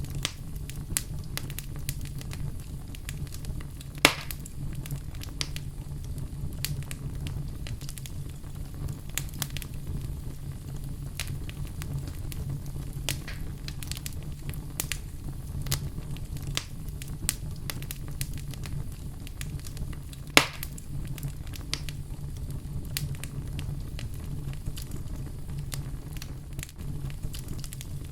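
Fireplace fire crackling: scattered small crackles over a steady low rumble, with two louder pops, one about four seconds in and another about two-thirds of the way through.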